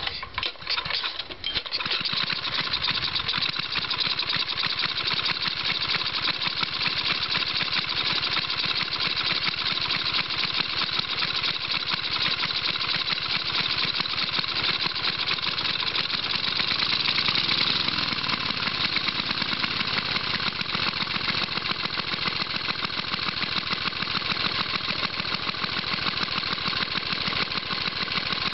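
1975 Tecumseh 5 hp single-cylinder engine cold-starting: a few irregular pops in the first second and a half as it catches, then running steadily.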